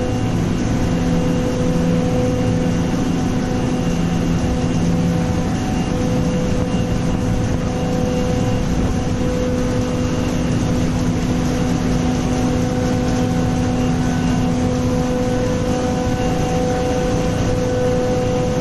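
Industrial machinery running steadily: a loud, even mechanical noise with several steady hum tones over it.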